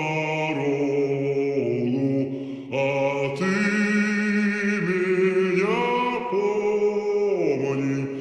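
Slowed-down, heavily reverberant sung vocals: long held notes that slide from one pitch to the next.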